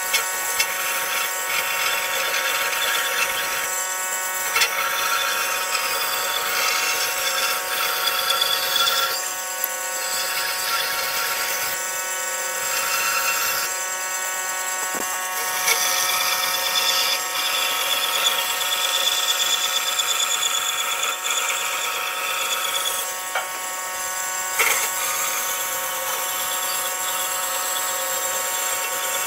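Small electric power tool running with a high motor whine, its pitch pattern shifting every few seconds as the work changes.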